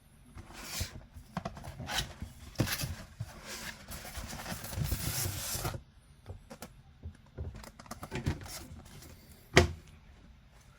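Box and packing materials handled by hand: irregular rubbing, scraping and light clicks, with a longer continuous scrape from about four seconds in and a single sharp knock near the end.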